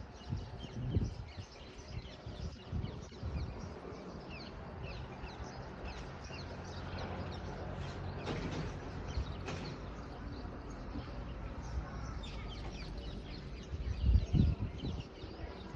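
Birds calling outdoors: many short, high chirps throughout, with a louder, fuller burst of calling about halfway through. Low thumps of wind or handling come near the start and again near the end.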